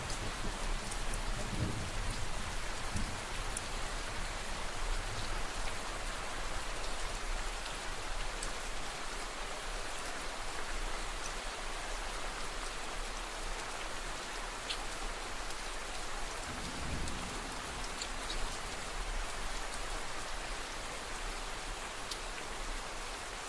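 Steady rain falling, with scattered ticks of single drops; a low rumble of distant thunder dies away in the first couple of seconds.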